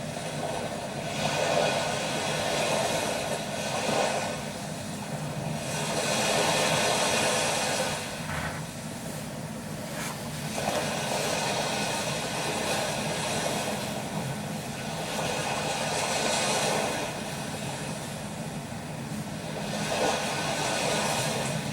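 Sea waves washing onto a sandy shore, the surf swelling and easing every few seconds.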